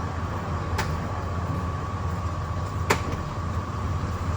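A steady low mechanical hum with a faint steady high tone, and two sharp clicks about two seconds apart, the second louder.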